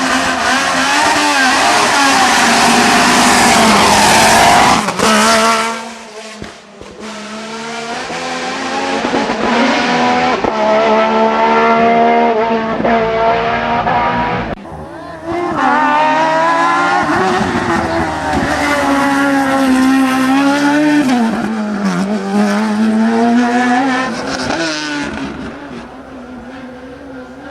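Hillclimb race cars at full throttle, engine pitch climbing and dropping through gear changes. One car goes by loudest in the first five seconds and fades away; about fifteen seconds in the sound changes abruptly to another car working up through the gears, which fades near the end.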